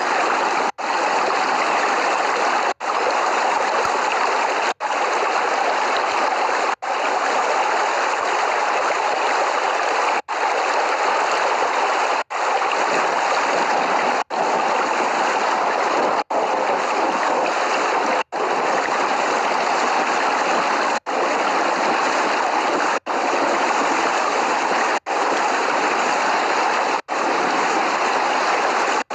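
Steady, loud rain noise, an even hiss without thunder, broken by brief sudden dropouts about every two seconds.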